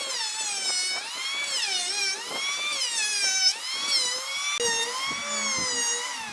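A high-speed electric power tool whining as it works wood, its pitch repeatedly dipping and recovering as the motor is loaded and eased off.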